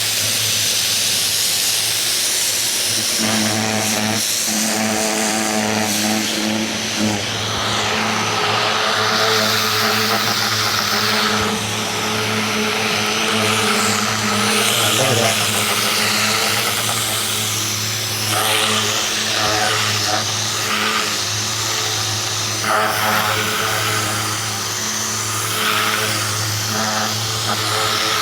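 Ryobi 2000 PSI electric pressure washer running, its motor and pump humming steadily under the hiss of the high-pressure water jet spraying the fence. The spray noise rises and falls as the wand sweeps across the surface.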